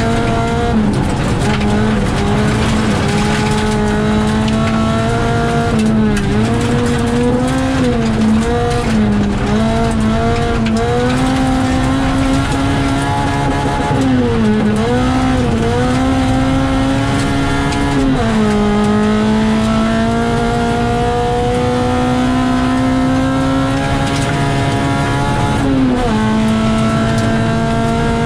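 Rally car engine heard from inside the cabin, held at high revs on a gravel stage. The pitch drops sharply and climbs again several times as the driver shifts and lifts, with one long, slowly rising pull in the second half, over a steady rush of tyre and gravel noise.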